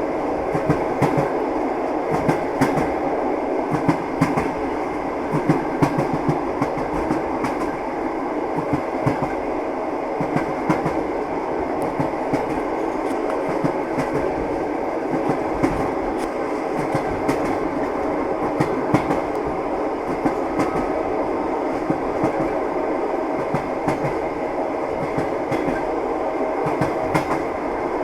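Train running on rails: a steady rumble with the wheels clattering and clicking irregularly, several clicks a second, over the rail joints.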